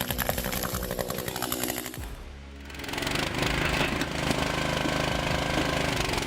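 Background music over a chainsaw running with a fast rattle. About two seconds in the sound drops briefly, then a steady machine hum comes in under the music.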